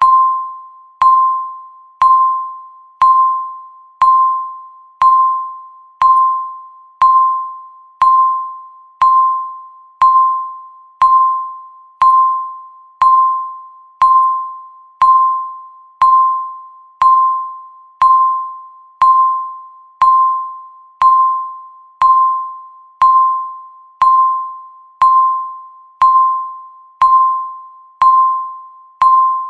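Countdown timer beep, one per second: a single tone of about 1 kHz that strikes sharply and fades away like a ding, repeating evenly about thirty times.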